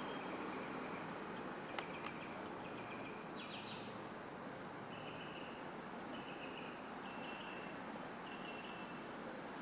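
A bird calling in short, high chirps of steady pitch, about one a second, over a faint steady hiss, with two light clicks about two seconds in.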